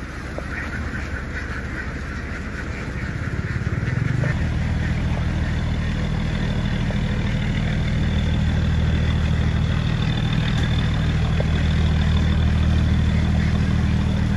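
An engine starts running steadily about four seconds in, its low drone growing louder. Ducks quack faintly before it takes over.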